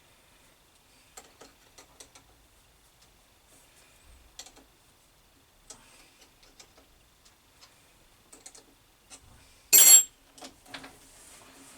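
Metal lathe parting off a brass workpiece with a parting blade: irregular light clicks and ticks as the tool is fed in, then one short loud burst about ten seconds in, followed by a faint steady hum.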